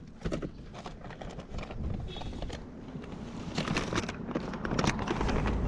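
Footsteps of a person walking, with scattered clicks and rustles. A low steady rumble comes in near the end.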